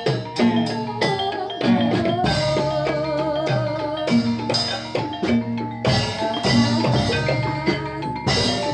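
Javanese gamelan playing jathilan accompaniment: struck metallophones ringing out a busy melody over hand drums in a steady rhythm.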